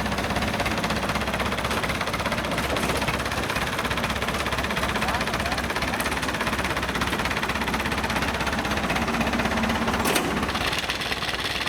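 Diesel engine of a heavy farm machine running steadily with a fast, even knocking rhythm. A sharp click sounds about ten seconds in.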